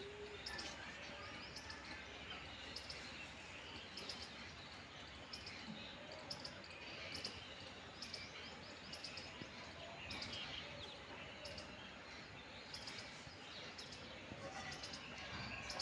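Small birds chirping faintly and irregularly, short high chirps repeated over a steady background hiss.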